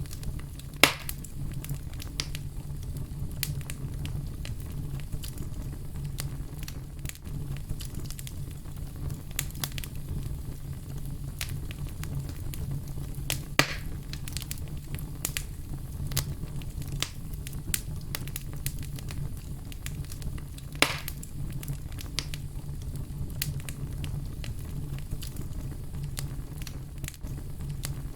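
Wood fire crackling and popping over a steady low rumble of flames. Three louder pops stand out: about a second in, near the middle, and about three-quarters of the way through.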